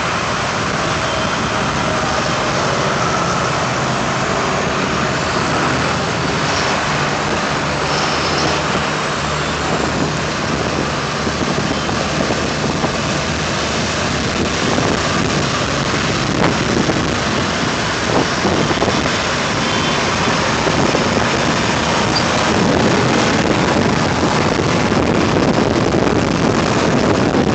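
Vintage tractor engines running as the tractors drive out of the field, under a dense, steady rushing noise.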